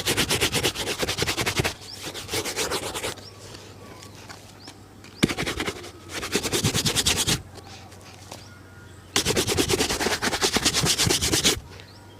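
Brushing a shoe during a shoe shine: rapid back-and-forth scrubbing strokes in bouts of one to two seconds, with short pauses between them.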